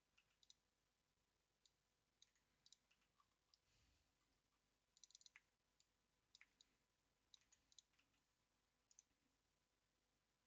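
Faint, irregular clicks of typing on a computer keyboard, single keystrokes and short quick runs of several.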